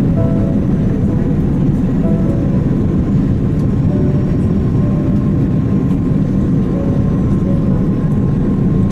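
Jet airliner noise: a steady, loud rumble of engines and airflow, with faint short musical notes over it.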